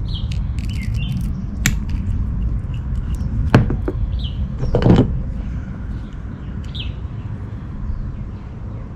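A bird chirping every few seconds over a steady low rumble, with a few sharp clicks and knocks from brake parts being handled, the loudest about three and a half and five seconds in.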